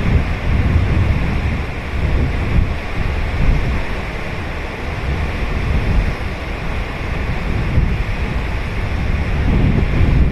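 Ocean waves breaking and washing on a sandy beach, a continuous surf noise with a deep rumble, buffeted by wind on the microphone.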